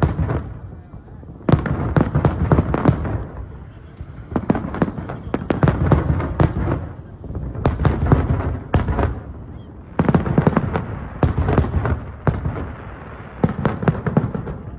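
Fireworks display: waves of rapid bangs and crackles from bursting shells every two to three seconds, each with a heavy low boom that dies away between salvos.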